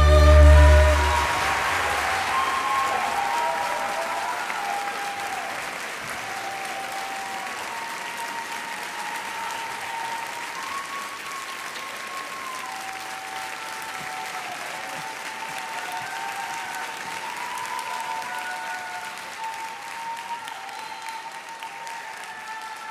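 Audience applauding steadily, slowly dying down, as the final sustained chord of an instrumental piece fades in the first second. A faint melody plays quietly under the clapping.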